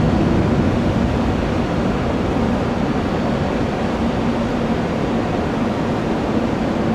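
Jet airliner engines running, a steady rumble with a faint low hum through it.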